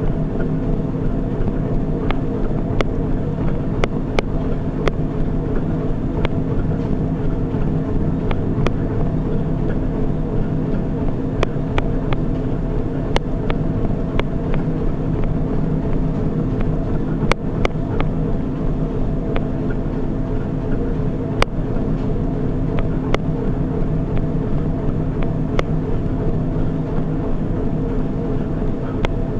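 Treadmill motor and belt running at a steady speed, a constant hum with scattered sharp clicks about once a second.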